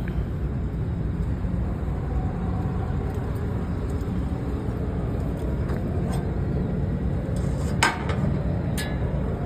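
A semi truck's diesel engine idling steadily, with two sharp clicks near the end, the first the louder.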